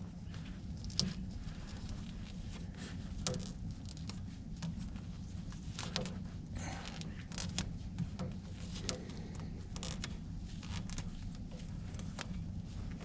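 Tape being pulled off the roll and wrapped around a wire: scattered small clicks and crackles of handling, over a steady low hum.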